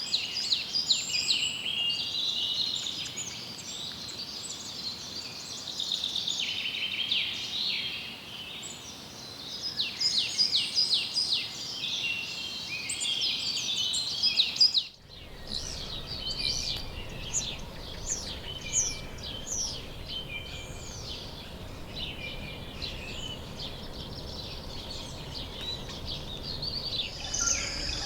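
A chorus of several birds singing at once, full of quick chirps and rapid trills. About halfway through it cuts abruptly to a different chorus of short falling chirps with more background noise beneath.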